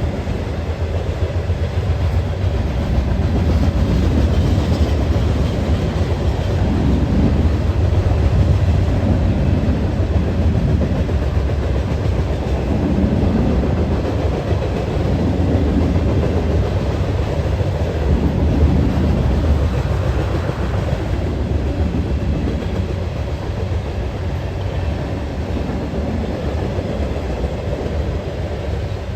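Train rolling steadily past, a continuous low rumble of railcar wheels with rapid clicking over the rail joints.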